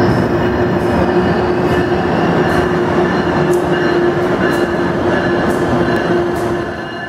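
Amtrak passenger train rolling past on the platform track: a steady, loud rumble of wheels on rail with a steady mid-pitched hum over it, easing slightly near the end.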